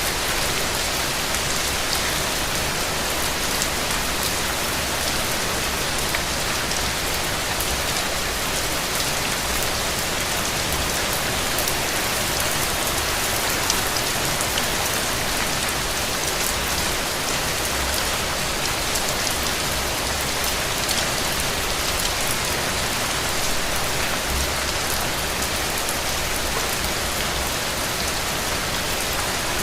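Steady rain falling, with many individual raindrops ticking sharply through the even hiss.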